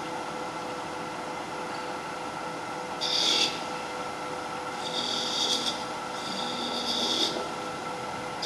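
Wood lathe running with a steady hum while a turning tool cuts the spinning wood in three short hissing passes, about three seconds in, about five seconds in, and again around six to seven seconds.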